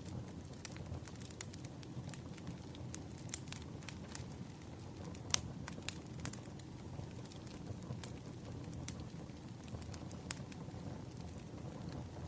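Wood fire crackling: irregular sharp pops and snaps over a low, steady rumble, with one louder pop about five seconds in.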